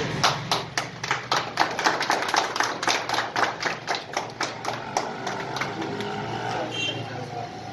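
A fast, even run of sharp claps, about four a second, thinning out after about five seconds, over a steady low hum with faint voices.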